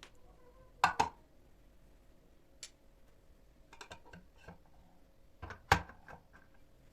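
Dishes and kitchen items being handled and set down: two sharp clatters, one about a second in and one near the end, with lighter taps and clicks between.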